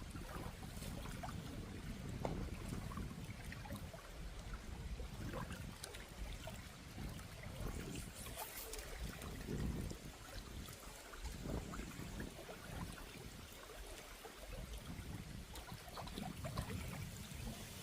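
Water trickling and running over stones, with gusty wind rumbling on the microphone.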